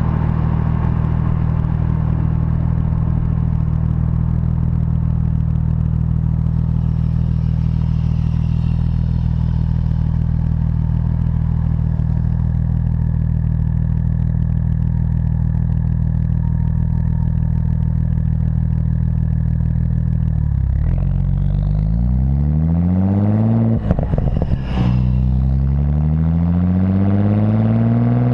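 Exhaust note of a tuned Audi S4 (APR Stage 2+, dual exhaust): a steady engine note for about twenty seconds, then the car accelerates with the pitch rising. A brief break comes a few seconds later, like a gear change, and the note climbs again.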